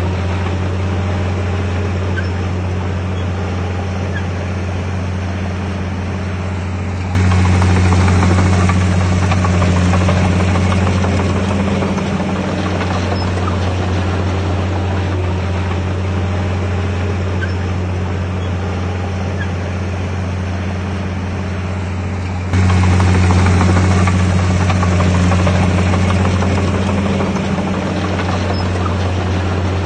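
Heavy earth-moving machine's diesel engine running steadily with a low drone. The sound steps abruptly louder about a quarter of the way in and again about three quarters in, easing back down over a few seconds each time.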